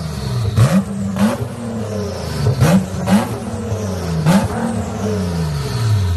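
A car engine revved in about five quick throttle blips, each starting with a sharp burst of noise: the pitch jumps up and then falls back slowly to idle.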